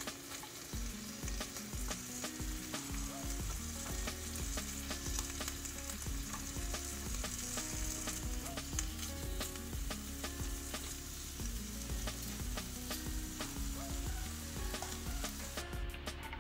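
Pork rib pieces sizzling in hot oil in a nonstick wok, with light clicks of tongs against the pan as the pieces are turned.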